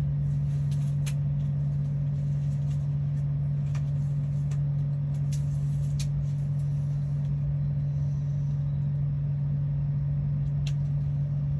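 A steady low hum from an unseen machine, with a few faint light clicks scattered over it.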